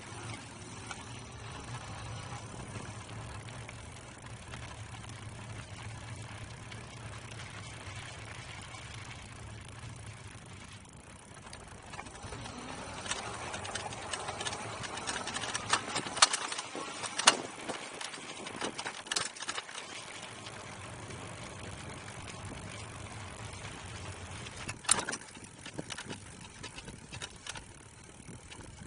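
Riding noise from a Mate-X electric fat-tire bike: a steady low hum under wind noise on the microphone. Midway there is a stretch of sharp knocks and rattles, and another sharp click about 25 seconds in.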